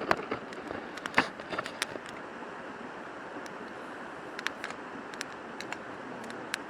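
A river rushing steadily, with scattered sharp clicks and knocks on top, the loudest about a second in.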